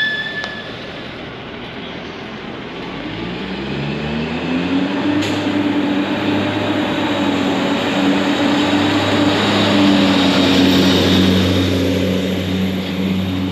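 A passenger transit vehicle heard from inside as it pulls away. Its drive hum rises in pitch over a couple of seconds, then holds a steady hum over a constant rumble as it travels.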